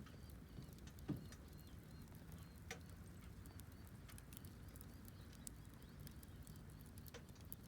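Wood campfire crackling faintly, with scattered sharp pops at irregular intervals over a low background hum.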